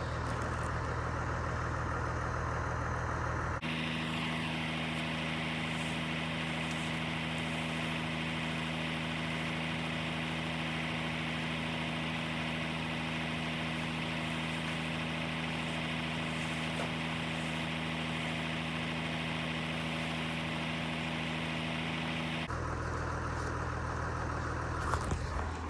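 A vehicle engine idling steadily, a constant hum whose tone shifts abruptly about three and a half seconds in and back again a few seconds before the end.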